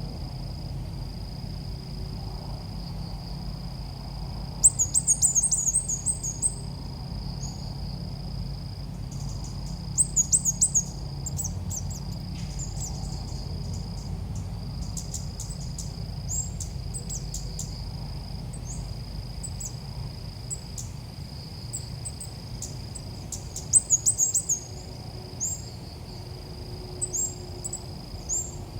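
Red-whiskered bulbul calls: three loud bursts of rapid, high chirping about five, ten and twenty-four seconds in, with scattered single high notes between. Under them run a steady high whine and a low rumble.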